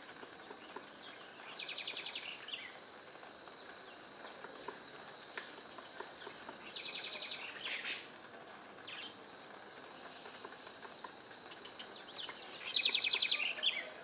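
Bird calls: three fast, buzzy pulsing trills of about a second each, the last one loudest, with a few short high chirps between them over a steady outdoor hiss.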